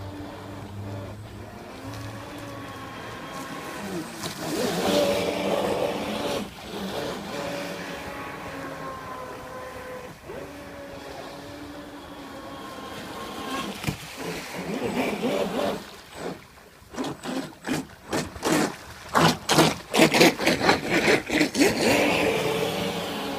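A radio-controlled model boat's motor runs with a whine that rises and falls. In the second half it breaks into a quick run of short, loud pulses.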